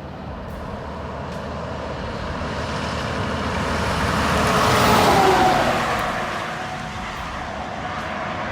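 A vehicle driving past. Its sound swells to a peak about five seconds in, drops in pitch as it passes, then fades.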